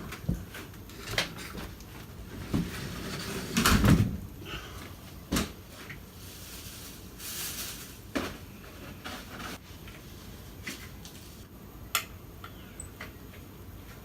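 Scattered knocks and clunks of hands-on window installation work, with one heavier thump about four seconds in and a short scraping hiss a few seconds later.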